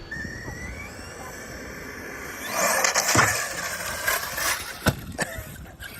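ARRMA Outcast 6S EXB RC stunt truck with a Hobbywing Max8 brushless system: the motor's whine rises in pitch, then a loud rush of tyre-and-dirt noise with a sharp knock about three seconds in and two more knocks near the end.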